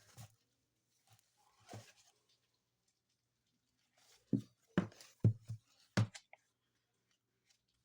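Handling a book's paper pages: a few soft clicks and paper scratches, then a quick run of five or six small taps and clicks between about four and six seconds in.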